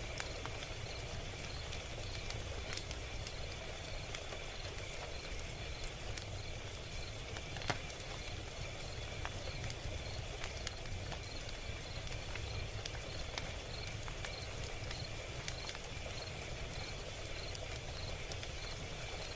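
Log fire crackling: a steady low rumble of burning with scattered sharp pops and snaps, one louder pop a little under halfway through. A faint, regular high-pitched chirping, about two a second, runs underneath.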